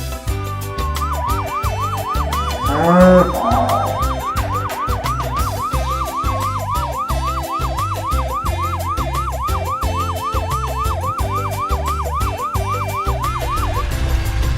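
A fast yelping emergency-vehicle siren, rising and falling about three times a second, over background music with a steady beat. About three seconds in there is a brief louder sound.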